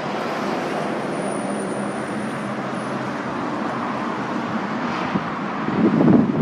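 Steady road traffic noise, a continuous wash of passing vehicles, swelling louder near the end.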